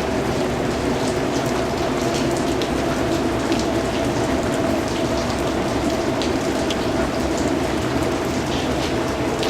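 Steady rain falling, a constant even hiss with scattered individual drops ticking on a surface.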